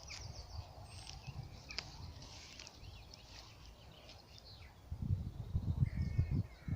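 Wild birds singing and calling, short chirps and trills, with low thudding footsteps of a walker starting about five seconds in.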